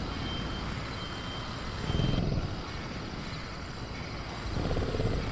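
Dark, steady low rumble of a designed raptor-cage ambience, swelling twice, about 2 seconds in and again near the end, with a faint thin high tone in the first couple of seconds.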